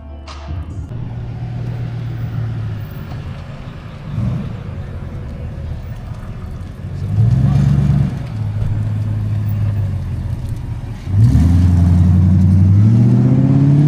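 Car engine running, rising in pitch briefly about halfway through, then much louder from near the end with a steadily climbing note as the car accelerates.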